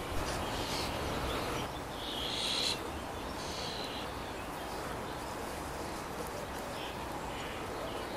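Wild birds calling: a few short, high calls, the loudest about two seconds in and fainter ones near the end, over steady outdoor background noise.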